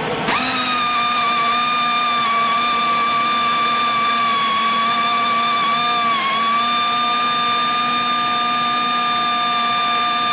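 Small pneumatic angle grinder running free at full throttle in an overheating endurance test: a steady high whine that spins up in the first instant and dips briefly in pitch about six seconds in.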